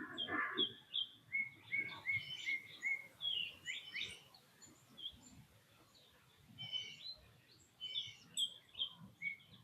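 Wild birds chirping and calling, with many short high notes. About a second in comes a quick run of repeated chirps, then scattered calls with a quieter spell in the middle. A lower, coarser animal sound is heard in the first moment.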